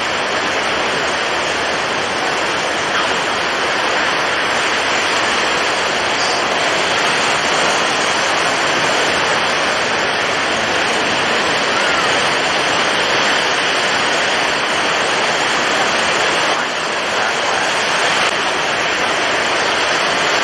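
Storm at sea: strong wind and heavy waves heard as one steady, even rushing noise with no let-up and no single wave standing out.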